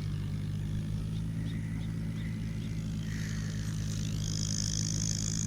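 A steady low engine hum, with a high hiss coming in about four seconds in.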